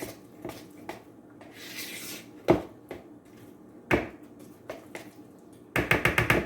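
A kitchen utensil knocking and scraping against a mixing bowl while working thick apple pancake batter: two sharp knocks, then a quick run of about seven taps near the end.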